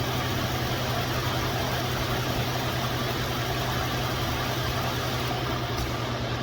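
2013 Ford F-150's V6 engine idling steadily, with the EVAP purge valve's vacuum hose pulled off for a test of whether the valve is stuck open.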